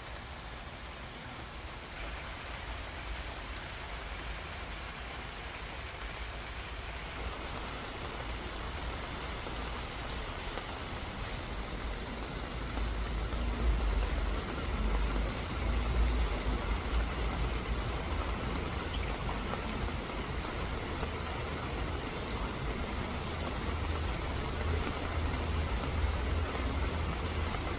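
Steady rain falling and pattering on surfaces, with a low rumble underneath. It swells slightly about halfway through.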